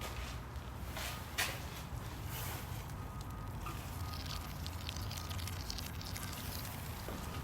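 Vacuum fluid extractor drawing old engine oil up a tube from the dipstick port, a faint fine crackling as oil and air are sucked through, over a steady low hum. A sharp click about a second and a half in.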